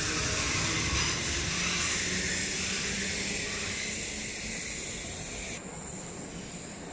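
South Western Railway electric multiple unit running along the platform close by, a steady rushing hiss of wheels and running gear that fades as the train moves away.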